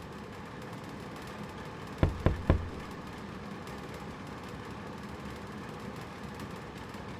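Three quick knocks on a door about two seconds in, over a steady low background hum.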